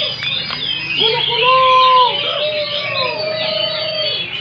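Many caged songbirds singing over one another in a continuous, dense chorus of rapid high chattering song. Beneath it there are lower drawn-out arched calls, each about a second long.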